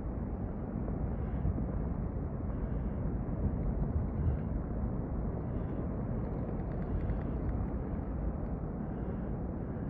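Low, steady rumble of a serac-fall avalanche pouring down a glacier face, with no separate impacts.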